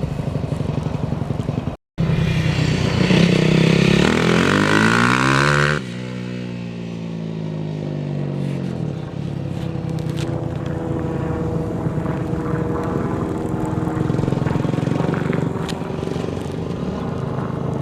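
Four-stroke dirt bike engine running. The revs climb for a couple of seconds, then the note drops away and falls in pitch before settling into a steadier, lower run.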